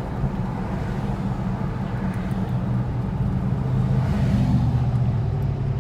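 A car driving, heard from inside the cabin: steady engine and road rumble, with the engine note rising a little about four seconds in.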